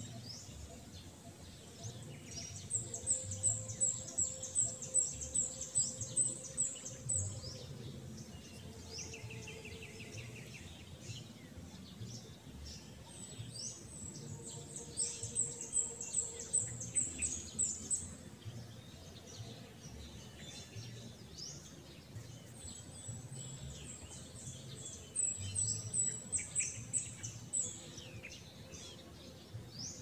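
Birds calling in the open. One bird gives three runs of rapid, high, repeated notes, about three a second, each run lasting a few seconds, with scattered softer chirps from other birds between them.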